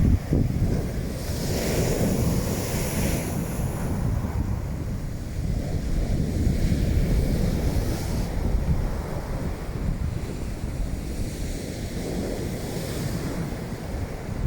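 Strong wind buffeting the microphone with a constant low rumble, over waves washing onto the beach that swell up in hiss about every five seconds.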